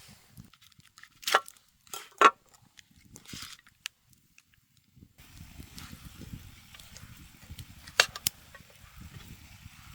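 A few sharp wooden knocks and clacks: two about a second and two seconds in, a louder one near the end, over a faint low crackle.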